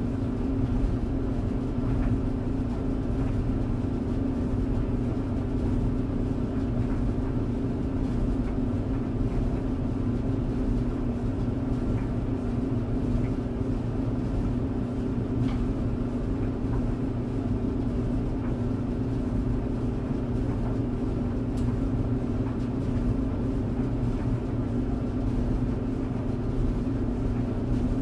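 Clothes tumble dryer running: a steady drone of the motor and turning drum with a constant hum, a low rumble underneath and a few faint ticks.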